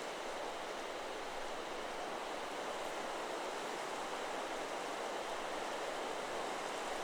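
Steady wind rustling through forest trees, an even rush of leaves with no chime strikes standing out.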